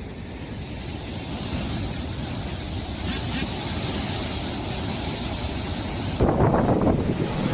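Cyclone wind and driving rain, a steady rushing noise that builds slowly, with wind buffeting the microphone. A heavier gust hits about six seconds in.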